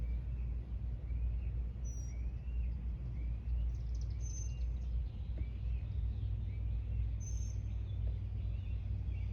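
Birds calling: a short chirp repeated about once a second, with a few higher, thin whistles, over a steady low rumble.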